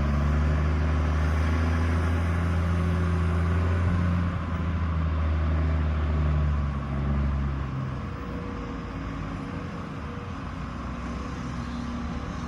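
Heavy diesel equipment engine running with a steady low drone, which drops away about eight seconds in, leaving a fainter rumble.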